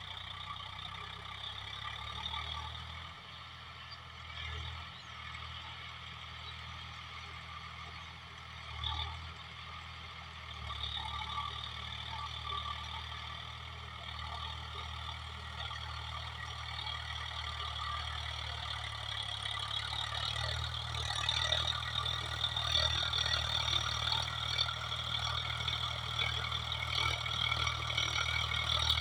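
Swaraj 744FE tractor's diesel engine running steadily while driving a rotavator, growing gradually louder over the last ten seconds or so.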